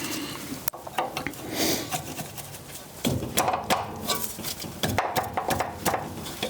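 Hand tools clicking, knocking and scraping on metal in irregular clusters as a brake line fitting at a front brake caliper is worked loose.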